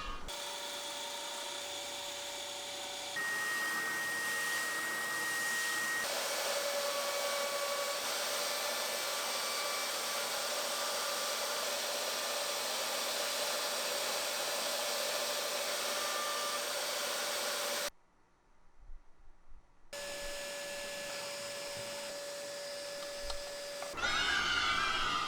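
An electric woodworking power tool running steadily with a constant whine. It cuts off abruptly for about two seconds past the middle, then runs again.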